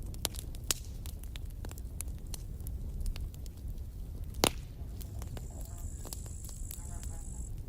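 Campfire burning: wood crackling with scattered sharp pops over a low steady rumble, with one louder pop about four and a half seconds in.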